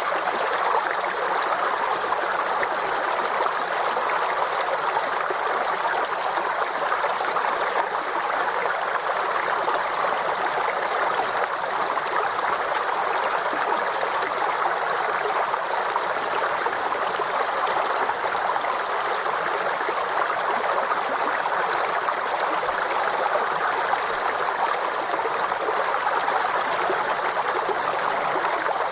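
Forest stream flowing over stones, a steady rushing and gurgling of water.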